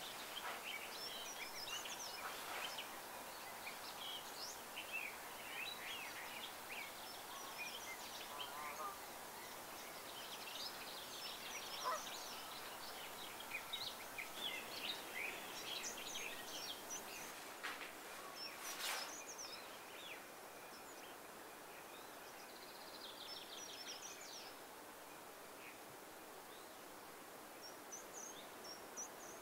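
Several small birds calling and chirping in short, high notes that are scattered densely at first and thin out in the second half, over a faint steady outdoor hiss.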